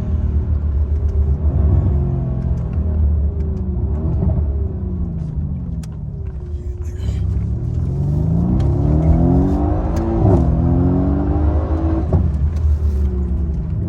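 Mercedes-AMG C63's twin-turbo V8 under hard acceleration. Its pitch falls off over the first few seconds, then climbs steadily, drops abruptly about ten seconds in at an upshift, climbs again and drops once more near the end, with short exhaust crackles between.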